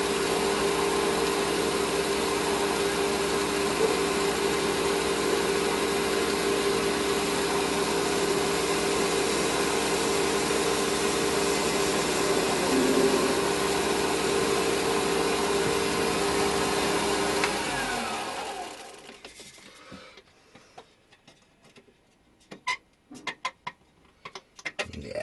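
Metal lathe running steadily with a constant whine while taking a light cut to ease a snug fit. The motor is switched off about 18 seconds in and runs down, followed by a few light clicks and knocks.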